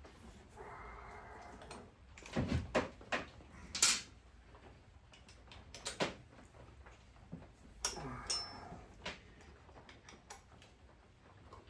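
Tools and metal engine parts being handled during a V-twin motorcycle top-end teardown: two stretches of scraping or rattling, a cluster of sharp knocks and clinks about two to four seconds in, and scattered clicks.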